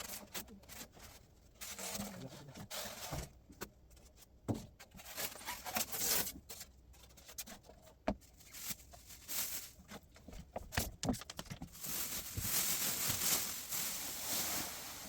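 Handling noises: scattered clicks and knocks with short rustles, and a longer hissing rustle near the end.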